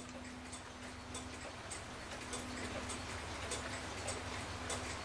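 Mechanical clock ticking steadily, a few ticks a second, over a faint low hum.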